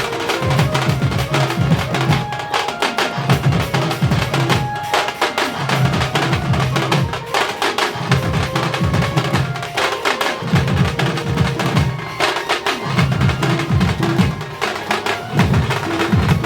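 Melody band playing a Karmi (Karma-dance) rhythm: drums and percussion in a repeating pattern, with short keyboard notes over the beat.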